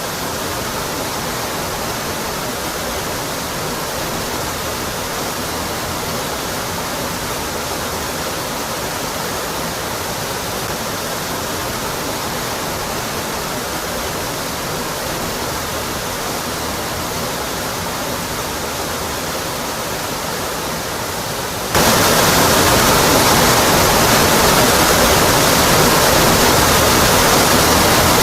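Waterfall rushing in a steady, even roar of falling water. About three-quarters of the way through it abruptly gets louder and fuller in the low end.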